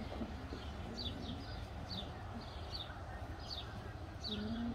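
A bird calling in the background, short high chirps about twice a second, over a steady low rumble. Near the end a puppy gives a short, low whine.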